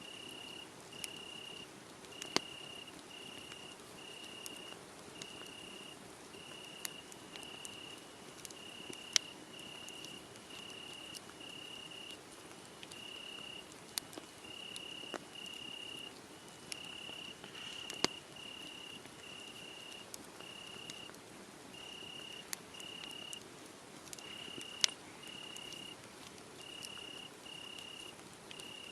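Crickets chirping in a steady, regular rhythm of high pulses, over a wood fire crackling with scattered sharp pops.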